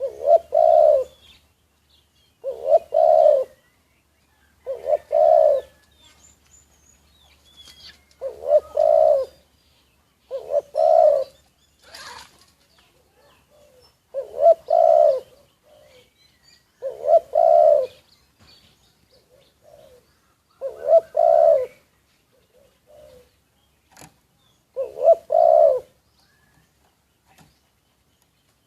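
Spotted dove cooing: a repeated two-to-three-note coo phrase about every two to four seconds, nine times in all. Faint chirps of small birds come between the phrases.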